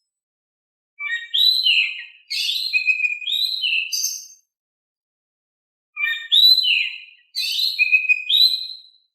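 Oriental magpie-robin (kacer) singing in a calm style. Two phrases of varied whistled, gliding notes come about a second in and again about six seconds in, each phrase nearly the same as the other.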